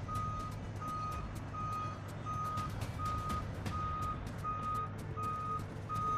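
A vehicle's reversing alarm beeping steadily at one pitch, about four beeps every three seconds, over the low rumble of an idling engine. Faint scattered clicks sit in the background.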